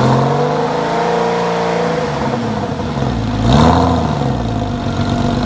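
Porsche 993's air-cooled flat-six through an aftermarket Fister exhaust, revved up and let fall back, then blipped once more sharply about three and a half seconds in before settling to idle.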